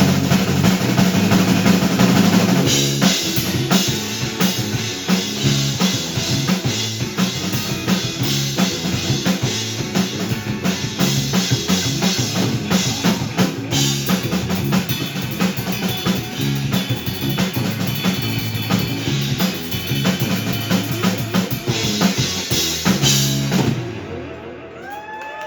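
Rock band playing an instrumental passage, the drum kit loudest with kick and snare over bass and electric guitar, until the song ends about 24 seconds in.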